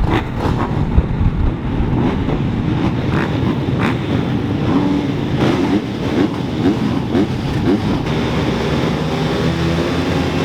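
Dirt bike engines running and revving loudly, with a run of quick rising pitches a few seconds in as they accelerate.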